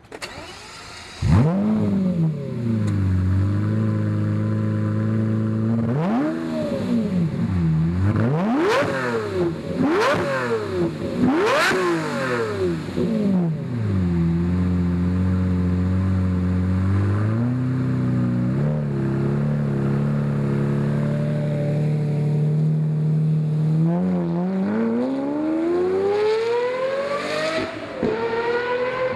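Lamborghini Murcielago LP640's V12 engine, breathing through a Fabspeed sport-cat and muffler-bypass X-pipe exhaust, flaring up about a second in and settling, then blipped sharply four times before dropping back to a steady idle. Near the end it is revved in one long steady climb.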